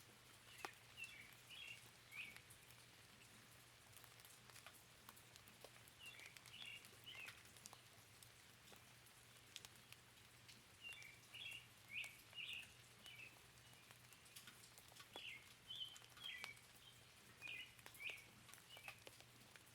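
Light rain dripping in scattered ticks, with a small bird chirping in short bursts of quick high notes, several times.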